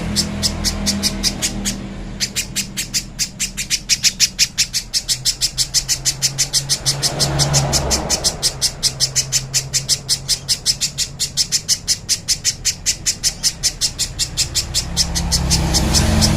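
Spiderhunter (pijantung pisang) calling in a fast, even series of short high chips, about five a second, without a break. A low background rumble swells under it twice.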